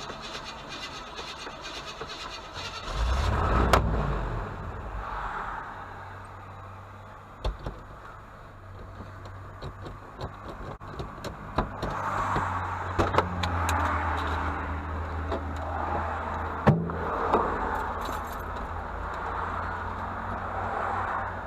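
A vehicle engine running with a steady low hum. It swells loudly about three seconds in, falling in pitch, and is joined by several sharp clicks and knocks.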